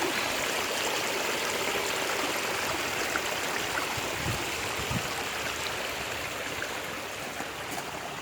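Backyard waterfall and stream running steadily, water splashing and trickling over rocks.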